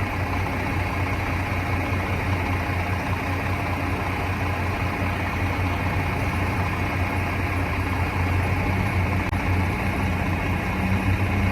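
A steady low engine hum that stays the same throughout.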